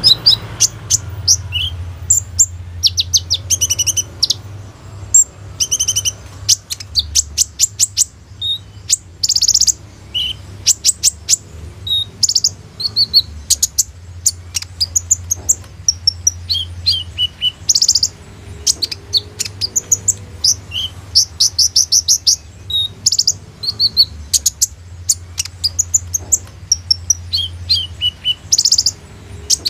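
A kolibri ninja sunbird singing a fast, varied song of high-pitched chirps and rapid trills in quick bursts with short gaps, full of mimicked phrases. A steady low hum runs underneath.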